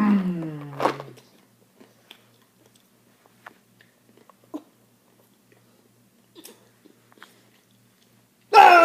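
A voice slides down in pitch in the first second. Then come a few faint, scattered clicks of a baby chewing peanuts. Loud baby laughter breaks out near the end.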